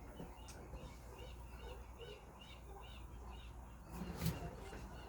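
A small bird chirping faintly and repeatedly, two or three short chirps a second, with a single knock about four seconds in.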